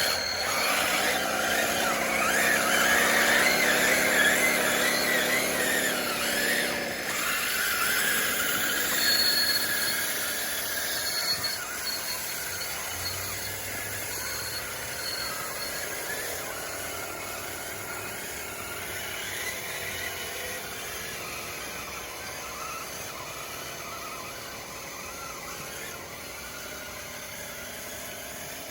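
DXR2 RC bulldozer at work: a squealing whine from its drive, loudest in the first ten seconds with a dip in pitch partway through, then settling into a quieter, steady running noise that fades.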